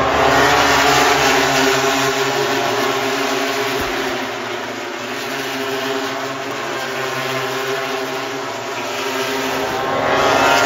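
Loud engine noise with a pitched hum. It swells near the start, fades in the middle, and swells again near the end, like machines passing close by.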